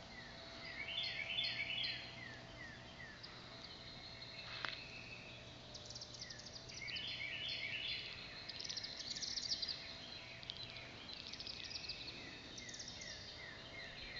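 Several wild birds singing and calling: runs of short falling chirps and busier warbled phrases come and go every few seconds, over a faint steady hum.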